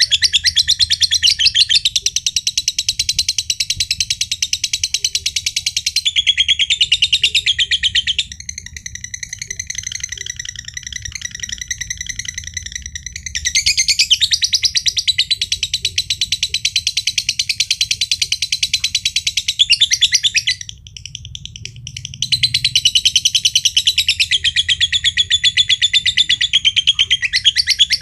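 Green (josan) lovebird giving its long 'ngekek' song: a rapid, continuous chattering trill. It softens for a few seconds about a third of the way in, breaks off briefly about three-quarters through, then resumes.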